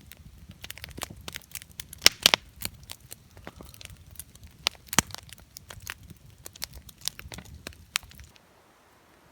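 Wood campfire crackling, with irregular sharp pops and snaps over a low rush of flame; it cuts off suddenly about eight seconds in, leaving faint hiss.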